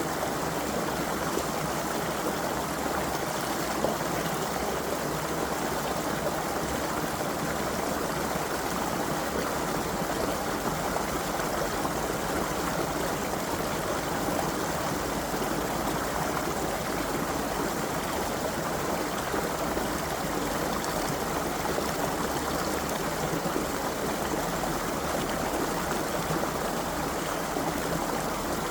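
Creek water running steadily, an even rushing and splashing with no other sound standing out.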